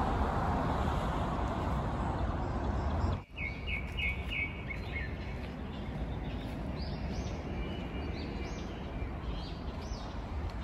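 Small birds chirping outdoors: a quick run of about five chirps a little after three seconds in, then scattered higher chirps later, over a steady hiss and low rumble of background noise.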